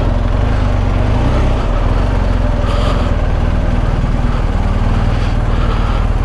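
BMW R1250 GS Adventure's boxer-twin engine running steadily at low revs, a low even pulsing.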